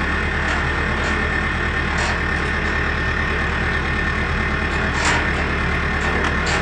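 Steady machine-like hum and hiss with a few faint clicks, the loudest about five seconds in.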